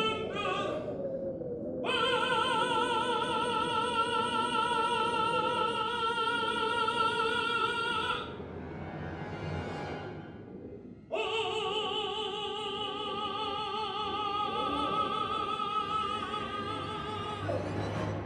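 A woman singing in an operatic style, holding long notes with vibrato: one from about two to eight seconds in, another from about eleven seconds in until near the end, with a softer stretch between.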